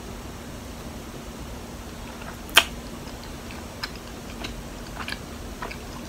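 Close-up chewing of soft, sticky mochi with red bean paste: faint wet mouth clicks, one sharp click about two and a half seconds in, over a low steady hum.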